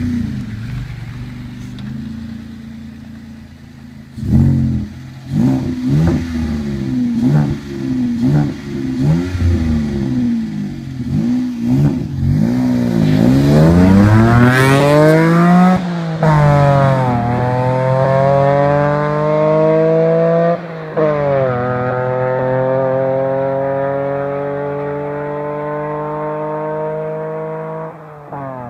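1996 Mitsubishi FTO GPX's 2.0-litre V6 through a custom exhaust with aftermarket headers, Y-pipe, 2.5-inch piping and resonators. It idles evenly, is blipped in a quick run of short revs about four seconds in, then revs higher and climbs in pitch in long pulls, dropping suddenly twice.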